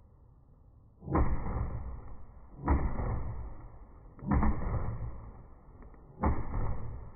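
Fireworks bursting: four booms about a second and a half apart, each striking suddenly and fading away over about a second.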